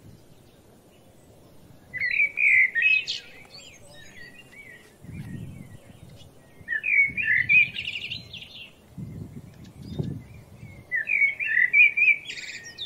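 A songbird singing a short, fast warbling phrase three times, roughly every four and a half seconds, with soft low rumbles in between.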